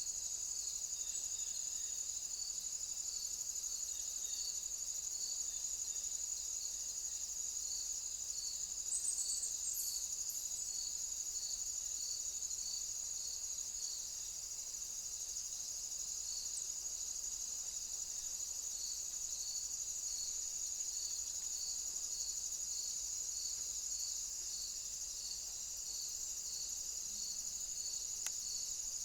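Insects, crickets or bush crickets, chirring steadily in a high-pitched drone, with a second insect song pulsing about twice a second.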